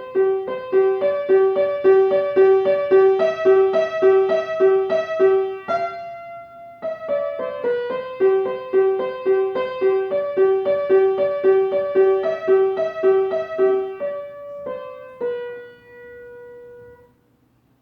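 Piano playing a short melody of even, separate notes, a low note repeated between higher ones at about two to three notes a second. The tune pauses briefly about six seconds in and ends on a held note that dies away.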